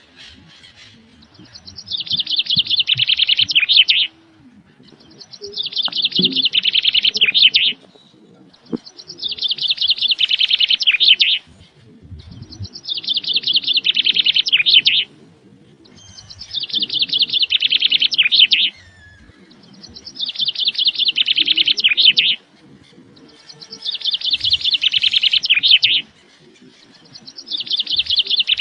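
A bird's rapid chirping trill, repeated over and over at an even pace, about every three and a half seconds, each phrase two to three seconds long and growing louder as it goes.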